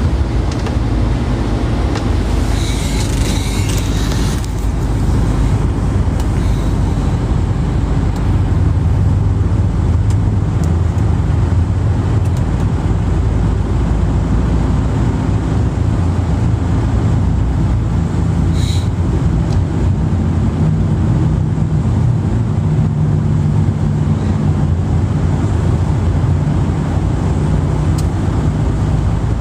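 Steady low rumble of a moving vehicle, with a brief higher hiss about three seconds in.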